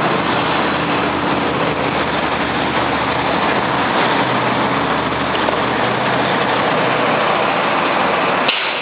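Steady roar of motor vehicle engines and road traffic, with a low engine hum underneath.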